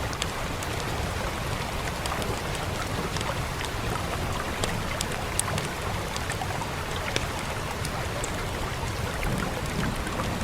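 Steady rain hiss with scattered sharp pops and crackles of a wood fire throughout.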